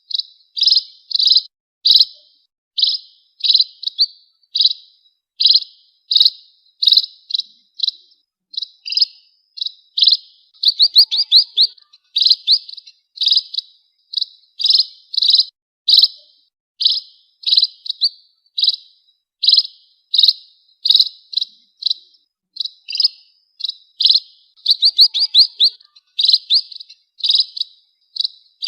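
Sparrows (pipit/emprit birds) chirping: a steady run of short, sharp, high chirps at about two a second. Twice, a quick rattling burst of rapid chirps breaks in.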